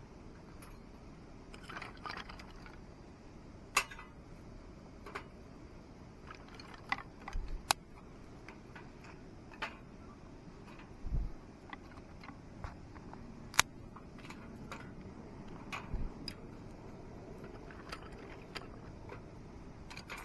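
Scattered light clicks and clinks of metal objects being handled, with a few sharp clicks and some dull knocks, over a low steady background.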